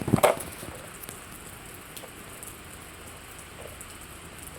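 Steady rain falling and pattering on the ground, with scattered faint drop ticks. A brief loud thud comes right at the start.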